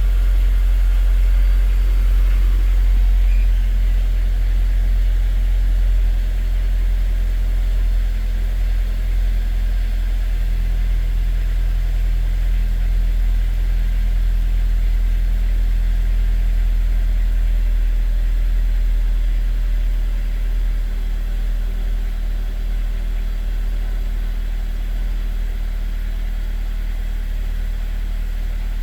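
Honda S2000's inline-four idling steadily while still warming up after a cold start, a steady low hum that eases down slightly in level over the stretch.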